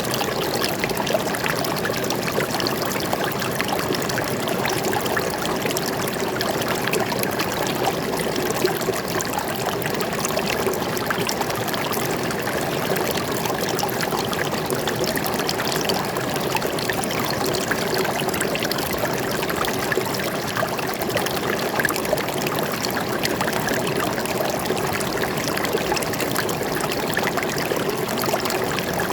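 Forest stream flowing and trickling steadily over rocks, an even rush of water with no change.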